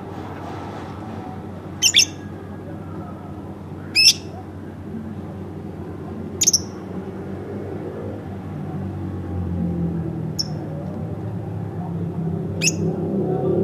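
A pet lovebird giving five short, shrill chirps a few seconds apart, the first three loudest, over a low background rumble that grows louder in the second half.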